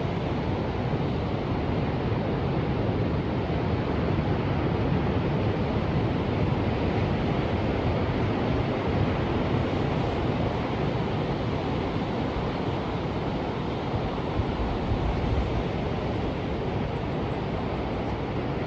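Ocean surf: a steady, deep rush of waves with no single break standing out.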